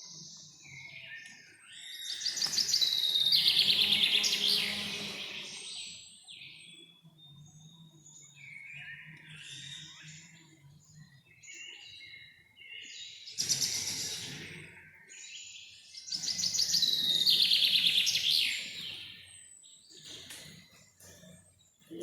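Songbirds singing and chirping in a forest, with two loud spells of rapid, repeated song, one about two seconds in and another about sixteen seconds in, and softer calls in between.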